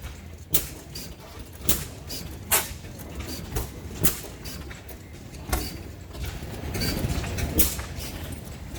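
Slow-turning oil field engines running, with sharp exhaust pops about once every second or so over a steady low rumble.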